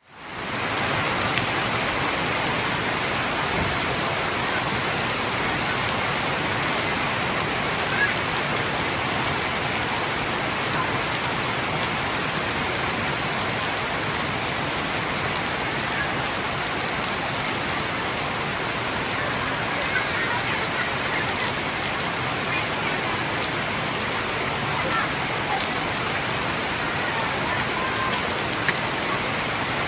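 Heavy rain falling steadily: a dense, even hiss of rain on surfaces that fades in at the very start.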